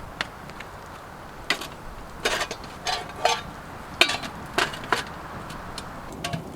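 A series of irregular sharp knocks and clinks, about eight in all, some with a brief ringing tone, over a steady background hiss.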